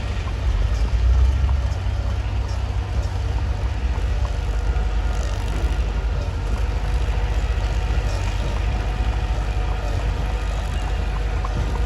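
Mitsubishi bulldozer's diesel engine running steadily, a deep low rumble, with a few faint clicks now and then and a slight swell about a second in.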